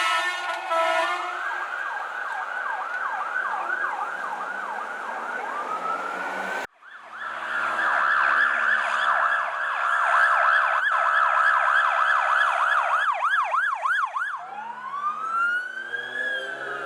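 Emergency vehicle sirens from LAFD fire apparatus or rescue ambulances. The sirens run in a fast yelp, about two pitch sweeps a second. After an abrupt cut, a long steady horn blast sounds over the yelping siren. Near the end, the siren speeds up briefly and then switches to a slow rising wail.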